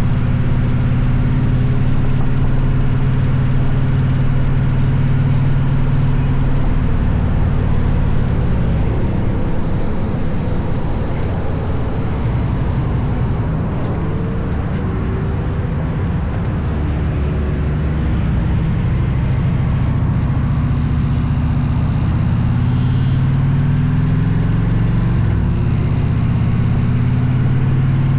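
Motorcycle engine running steadily, its pitch shifting up and down a few times as the revs change.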